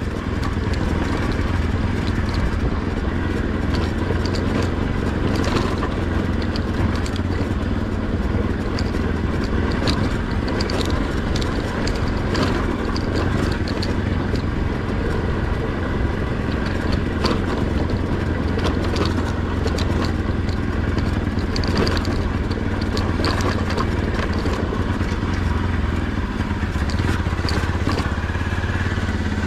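Motorcycle engine running steadily while riding, with scattered clicks and rattles over a rough road.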